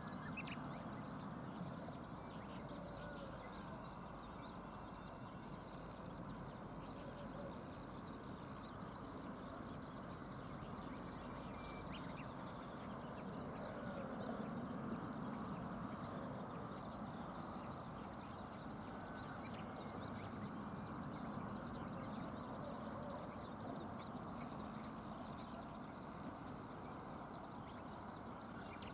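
Steady outdoor background noise with a few faint, brief higher sounds scattered through it.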